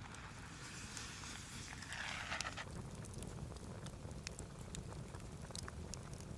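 Wood campfire crackling with scattered sharp pops over a steady low rumble, and a brief rustling hiss in the first half.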